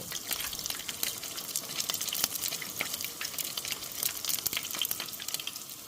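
Tempura beer-battered pike frying in hot oil, a dense, steady sizzle full of fine crackles and pops.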